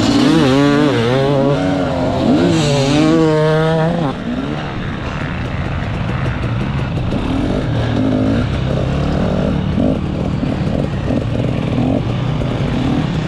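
Enduro motorcycle engine revving hard, its pitch rising and falling repeatedly for about the first four seconds, then running on at lower, steadier revs.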